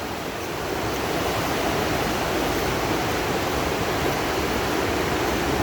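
Steady rush of a fast-flowing river in flood, the River Ebbw swollen five to six feet above normal after several days of heavy rain.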